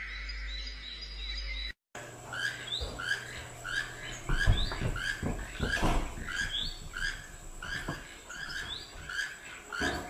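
A bird calling over and over, a short rising chirp about twice a second, starting after a sudden cut about two seconds in, with a few low thumps in the middle. Before the cut, a steady high whistling tone.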